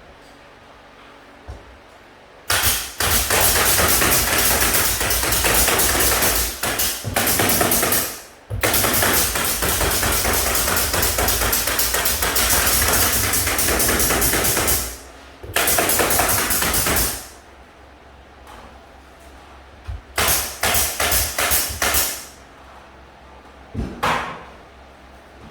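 A power tool running with rapid hammering strokes in a long run of over ten seconds, then a shorter run and a few brief bursts near the end.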